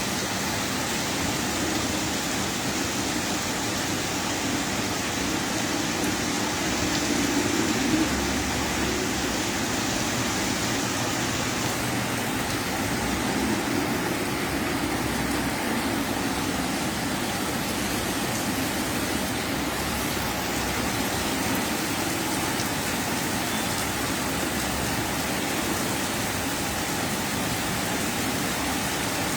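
Heavy rain falling steadily: a constant, even hiss of downpour with no breaks.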